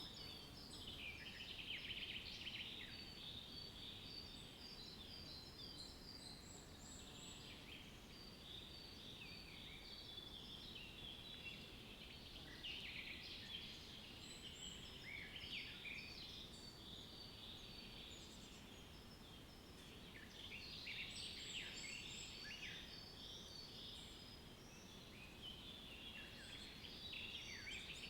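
A chorus of many small birds chirping and twittering together, short high calls that swell and thin out every few seconds, over a faint steady background hiss.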